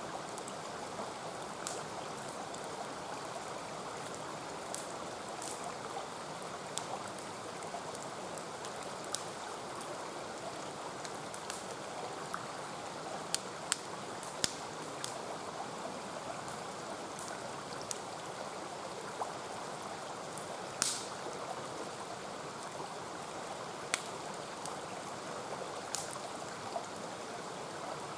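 Mountain stream rushing steadily, with scattered sharp crackles and pops from a wood campfire, one louder pop about three-quarters of the way through.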